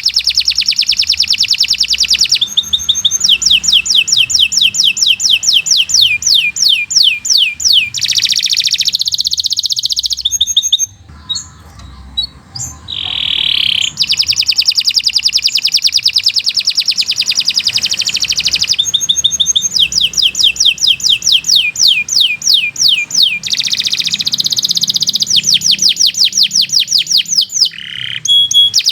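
Domestic canary singing a long, fast song of rapid trills and rolls, including runs of quick downward-sweeping notes; the song breaks off briefly about halfway through and then resumes.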